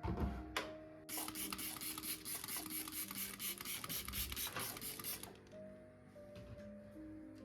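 Soft background music. A knock near the start, then from about a second in a rapid, scratchy rasping noise for about four seconds, like scrubbing or rubbing a surface.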